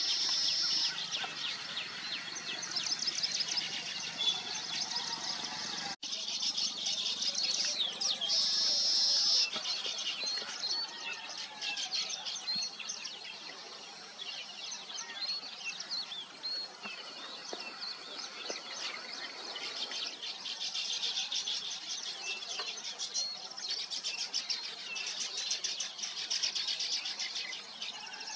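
A colony of weaver birds chattering at their nests, many rapid, overlapping chirps and calls at once.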